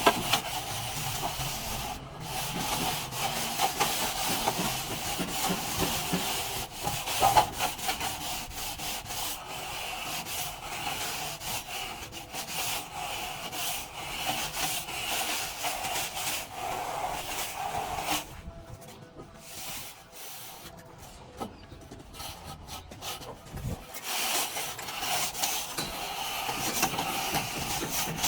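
A plastering tool scraping and rubbing steadily across a plastered wall. It goes quieter about two-thirds of the way through, then picks up again near the end.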